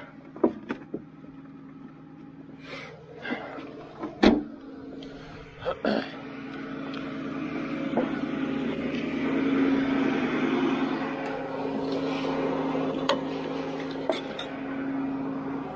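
Ford F450 recovery truck running with a steady engine hum, with a few sharp knocks in the first six seconds. From about six seconds in, a louder steady mechanical hum builds and holds.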